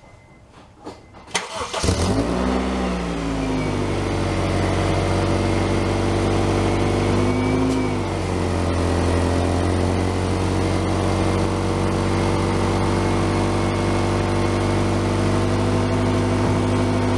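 2001 Honda CR-V's 2.0-litre four-cylinder engine starting about a second and a half in, its revs flaring up and dropping back as it catches, then settling into a steady idle. The exhaust leak the owner means to fix is audible at idle.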